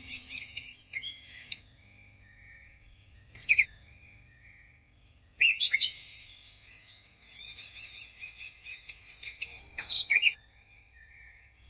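Songbirds chirping and singing, several calls overlapping, with louder sharp calls about three and a half, five and a half and ten seconds in.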